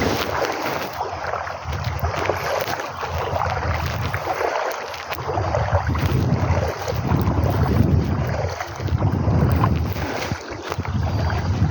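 Rushing river water, a steady hiss, with wind buffeting the microphone in uneven low gusts through the second half.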